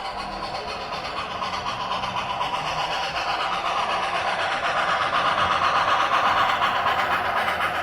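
HO-scale model train running past on the layout track, its wheels clattering quickly over the rails. The clatter grows louder to a peak about six seconds in as the train comes close.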